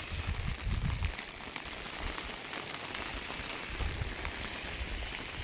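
Steady patter of light precipitation, many small ticks over a hiss, with low rumbles coming and going.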